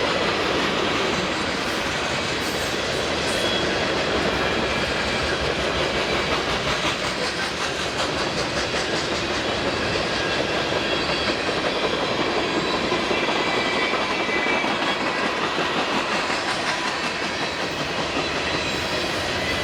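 BNSF freight train's cars rolling past, a steady rumble with the clickety-clack of wheels over the rail joints and brief faint high squeals now and then.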